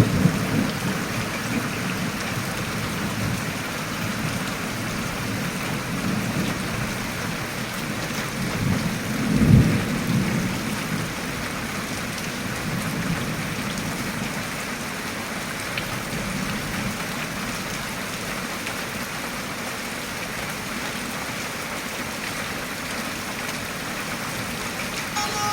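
Steady rain falling, with low thunder rumbles: the loudest rumble about nine and a half seconds in.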